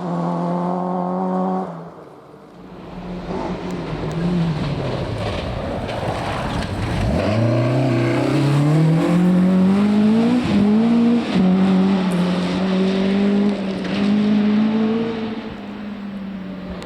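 Rally car engine at full throttle on a special stage. One car holds high revs until a sudden cut about two seconds in. After a lull, another engine rises steeply, shifts up with short breaks in the note, then holds high revs and fades away near the end.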